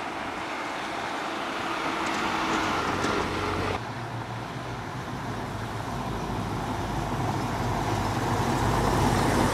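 Classic cars rolling past slowly on cobblestones. A small car's engine and tyre noise swells, then breaks off abruptly about four seconds in. A classic Ford Mustang convertible follows, its engine running with a deep, low rumble that grows louder as it approaches.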